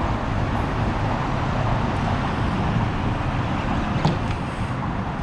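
Steady rumbling noise, with a single short knock about four seconds in.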